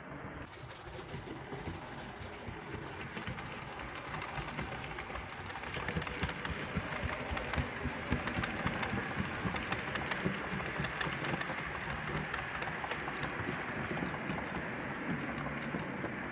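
Model train running on the layout's track: a steady rumble of wheels and motor with rapid clicking over the rail joints, growing louder about six seconds in as it comes nearer.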